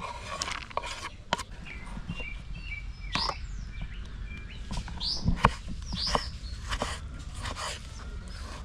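Small birds chirping with short high calls, over a steady low rumble, with several sharp sweeping sounds scattered through.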